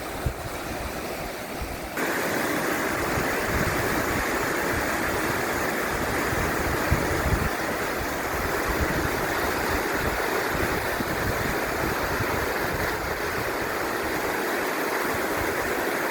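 Tully River water rushing: a steady wash of flowing-water noise that steps louder about two seconds in.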